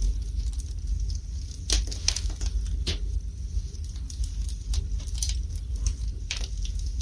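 Wood fire burning in a fireplace: irregular sharp crackles and pops from the burning logs over a steady low rumble, with clusters of snaps about two seconds in and again after five seconds.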